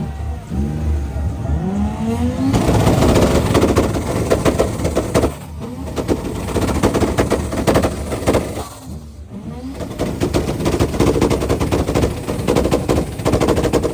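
A car engine revved hard with rapid exhaust pops and crackles like gunfire, in three runs with short lulls between them.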